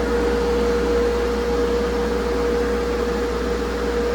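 Heat-pump air-conditioning unit of an electrical enclosure running in cooling mode: a steady fan-and-compressor hum with a constant mid-pitched tone over a low drone.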